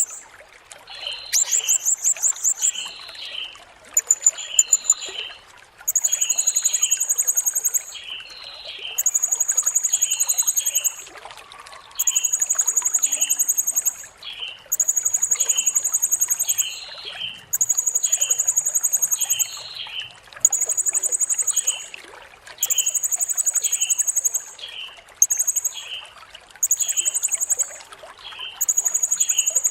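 Blue-crowned hanging parrot (serindit) giving shrill, very high, rapidly pulsed trills, each about two seconds long and repeated every few seconds. A steady series of lower chirps runs about once a second beneath them, over a faint trickle of water.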